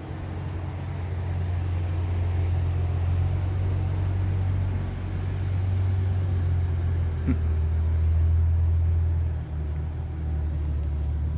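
Deep, continuous rumble of a SpaceX rocket launch heard from far off, swelling and easing over several seconds. Crickets chirp faintly throughout.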